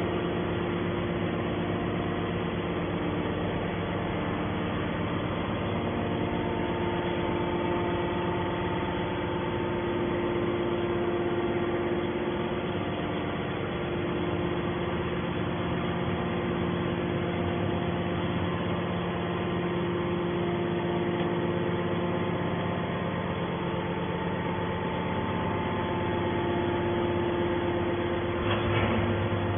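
Scrap metal baler running with a steady mechanical hum of several held tones. It swells briefly near the end.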